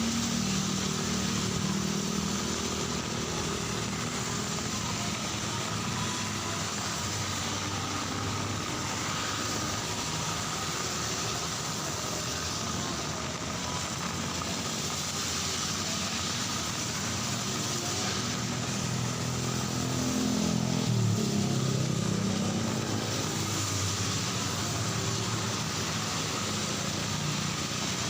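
Rain falling steadily with road traffic on a wet street: cars and motorcycles running past, one passing close about twenty seconds in.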